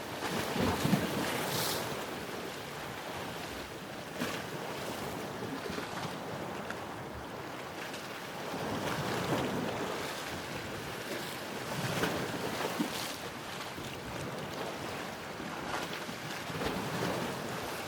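Ocean waves washing onto a shore, a steady rush of surf that swells and eases every few seconds as each wave breaks and draws back.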